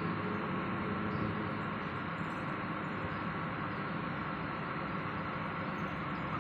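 A diesel train heard from a distance: a steady hum and hiss with no whistle or other sudden sound.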